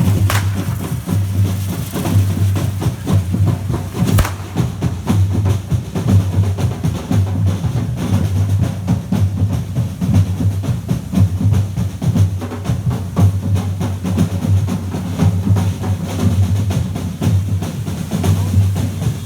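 Drum-driven percussion music: dense drum strikes over a steady, repeating low bass-drum pulse. Two sharp cracks stand out, one just after the start and one about four seconds in.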